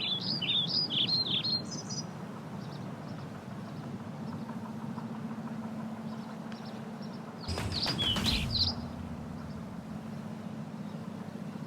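Small birds chirping in quick, repeated notes for the first two seconds, then only faintly, over a steady low hum. About eight seconds in, a brief louder rush of noise comes with another burst of chirps.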